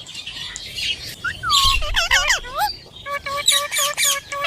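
Indian ringneck parakeet calling: a few swooping whistled calls, then a quick run of short repeated notes, about five a second, in the second half.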